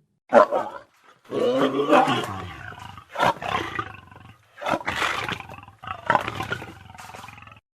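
A big cat roaring and snarling in a series of about six separate bursts with short gaps between them; the longest comes a little over a second in.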